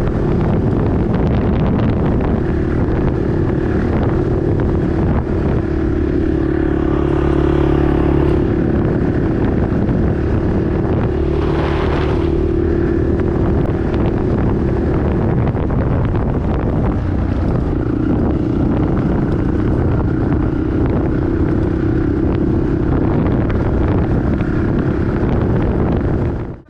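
Honda TRX450R ATV's single-cylinder four-stroke engine running steadily under way, with wind buffeting the microphone.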